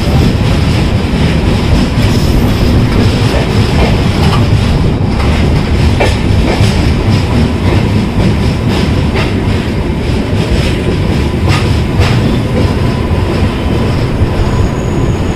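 Indian Railways passenger train running, heard from aboard: a steady rumble of wheels on rail with scattered clicks as the wheels cross rail joints and points. A thin, high wheel squeal starts near the end.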